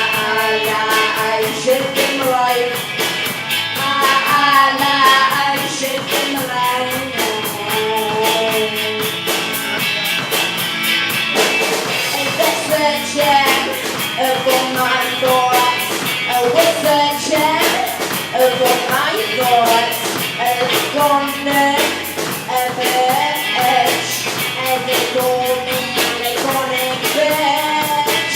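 A rock band playing live: electric guitar and bass over drums with a fast, steady beat.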